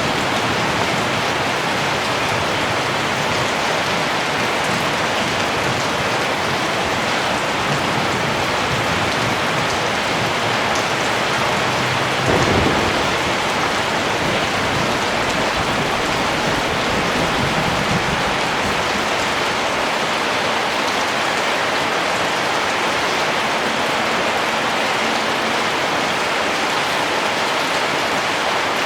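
Steady rain falling, with a brief low rumble of distant thunder about twelve seconds in.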